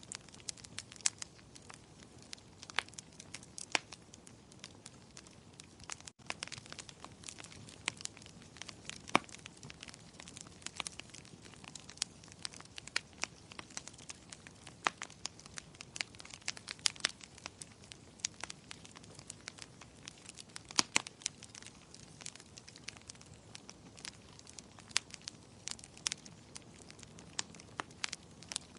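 Wood fire crackling in a fireplace: irregular sharp pops and snaps, several a second, over a soft steady hiss of burning. The sound drops out for an instant about six seconds in.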